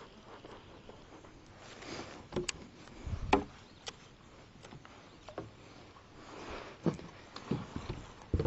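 Scattered light knocks and clicks of fishing gear being handled in a kayak, the loudest a low thump about three seconds in.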